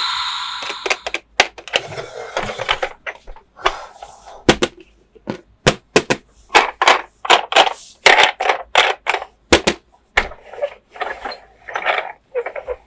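Hard plastic toy parts being handled, with an irregular run of sharp clicks and knocks and short scraping rustles between them.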